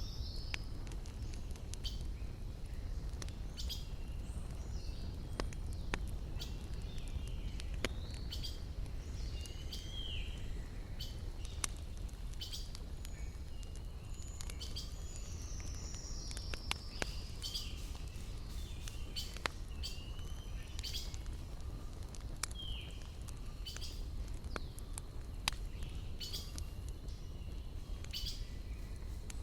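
Campfire crackling, with frequent sharp pops of burning wood over a steady low rumble, while birds chirp repeatedly in the surrounding forest.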